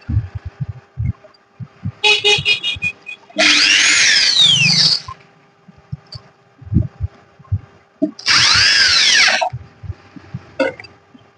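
Electronic sound effects: loud swooshing bursts with sweeping pitch glides, about three seconds apart, between irregular low thuds, over a faint steady hum.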